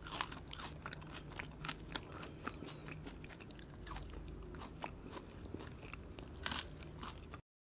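Close-miked eating sounds: chewing and crunching thin french fries, a dense run of small crisp crackles and clicks. Near the end the sound cuts off to dead silence.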